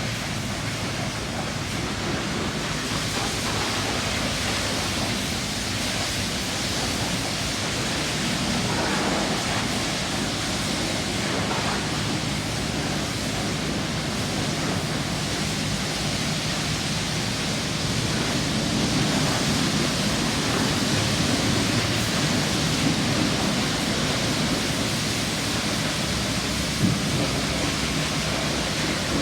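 Automatic car wash running: a steady rushing noise of water spray or air, with one brief knock near the end.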